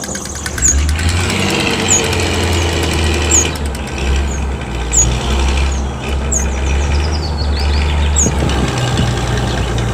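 A heavy vehicle's engine running steadily at idle with a low hum. Short high chirps recur about once a second above it.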